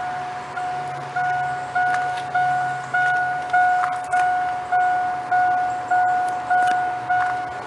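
Chevrolet Silverado's dashboard warning chime, a single-pitched electronic bong repeating evenly at a little under two a second, each one fading before the next.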